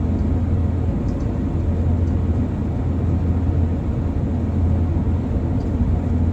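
Steady low rumble of Airbus A350-1000 cabin noise while taxiing after landing: the Rolls-Royce Trent XWB engines at idle and the aircraft rolling on the ground.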